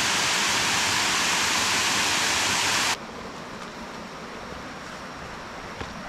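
Rushing water of a waterfall, a steady dense hiss that drops suddenly to a quieter, duller rush about halfway through.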